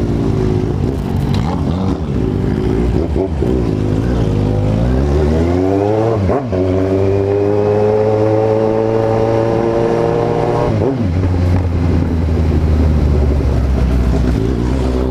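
Kawasaki Z750 motorcycle's inline-four engine under way, rising in pitch as it accelerates, with a gear change about six seconds in. It holds a steady high note, then drops and settles lower about eleven seconds in.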